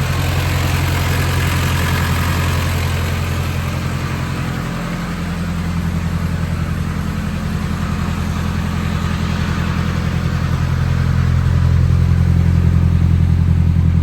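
Nissan 240SX's turbocharged KA24DET four-cylinder engine idling steadily, dipping briefly about five seconds in and getting a little louder near the end.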